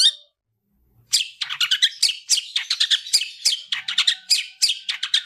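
Long-tailed shrike (cendet) in full song. A loud call sweeping downward ends right at the start, then after about a second's pause comes a fast, unbroken run of sharp chattering notes, about five a second.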